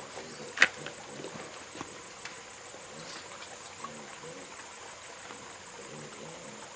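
A single sharp knock or snap about half a second in, over a steady high insect drone and faint scattered low sounds.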